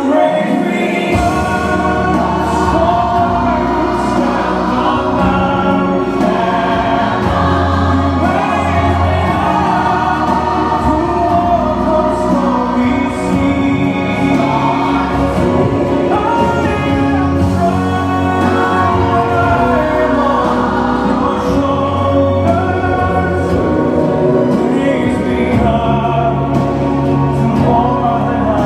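Music with a choir singing over sustained instrumental accompaniment.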